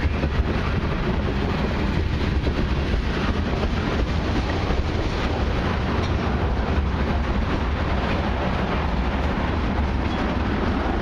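Tank cars of a long freight train rolling past close by: a steady rumble and rush of steel wheels on the rails.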